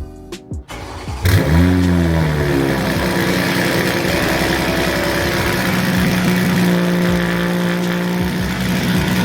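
Car engine catching about a second in, its revs flaring and falling away, then settling to a steady idle through a loud exhaust.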